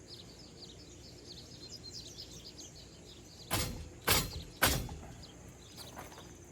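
Birds chirping steadily, with three loud knocks about half a second apart near the middle as parts of a kayak rack are handled and fitted during assembly.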